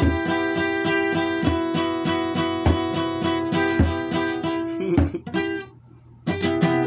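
Acoustic guitar strummed in an even rhythm on a ringing chord, breaking off about five and a half seconds in, then one last strummed chord near the end.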